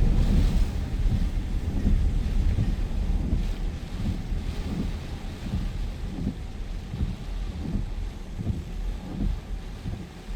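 Storm wind gusting against the microphone: a heavy, uneven low rumble that eases off over the seconds, with a faint hiss above it.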